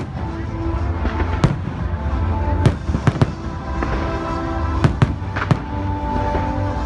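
Fireworks going off in irregular sharp bangs, about seven in quick succession, with background music playing throughout.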